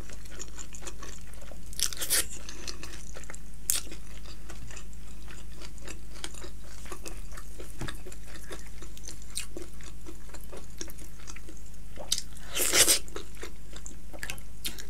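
Close-miked chewing and biting of curried chicken meat: wet clicks and smacks of the mouth working, with a few louder mouth noises about 2 seconds in and near 13 seconds.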